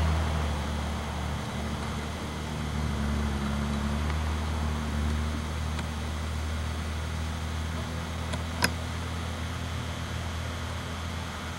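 A car engine idling with a steady low hum under light hiss, and a single sharp click about nine seconds in.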